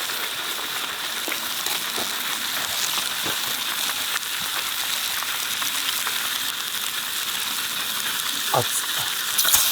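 Steady sizzling hiss with fine crackles from food cooking over a gas camp stove.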